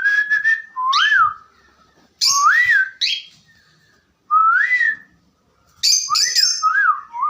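Cockatiel whistling: short phrases of rising-and-falling whistled notes, each about a second long, repeated four times with short gaps between.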